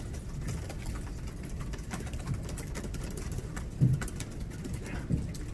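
Room tone of a press conference hall between questions: a steady low rumble with many quick, faint clicks scattered throughout, and a soft thump just under four seconds in.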